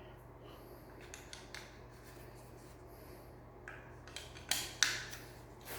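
Light clicks and scrapes of small screws and metal ceiling-fan parts being handled and fitted, with a few sharper clicks about four and a half to five seconds in.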